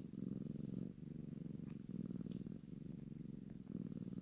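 Domestic cat purring close to the microphone, a low steady rumble that swells and eases about once a second with its breathing.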